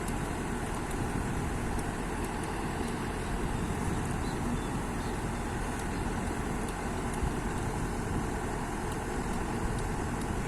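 Kobelco excavator's diesel engine running steadily.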